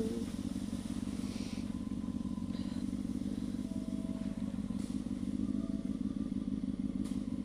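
Honda CB600F Hornet's inline-four motorcycle engine running steadily at an even, unchanging speed, with no revving.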